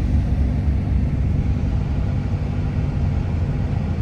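Truck driving: a steady low drone of engine and road noise heard from inside the cab.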